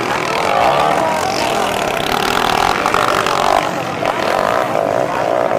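Underbone racing motorcycles' engines running hard, a continuous engine noise.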